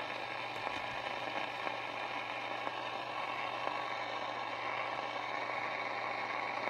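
Sony ICF-2001 receiver, just switched on, giving a steady static hiss from its speaker with a faint hum underneath.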